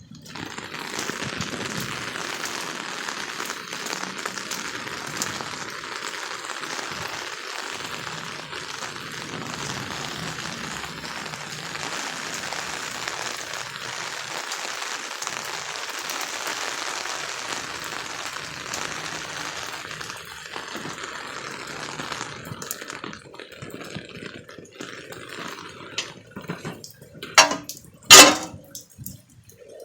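Steady hiss of pouring water that stops about 22 seconds in, followed by scattered drips and two loud knocks near the end.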